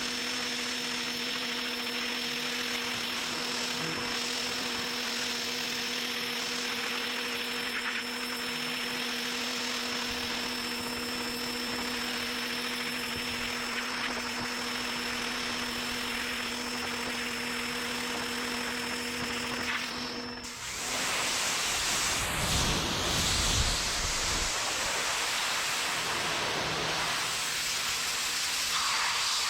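Pressure washer running while spraying a car, a steady hiss of water with a motor hum and a thin high whine. About twenty seconds in the hum and whine stop and a rougher, louder spray sound takes over.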